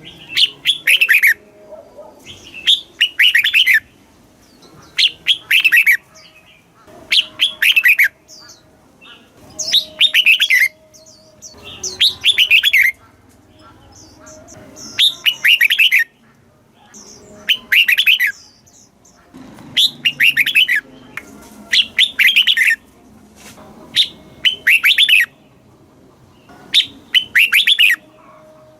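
Red-whiskered bulbul singing: short phrases of a few quick, rich notes, repeated about every two seconds.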